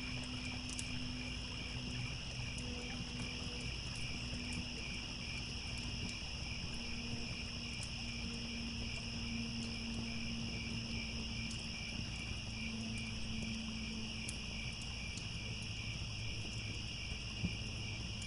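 Crickets chirping in a steady, evenly pulsing chorus over a low steady rumble, with sparse faint crackles from a campfire and one sharper pop near the end.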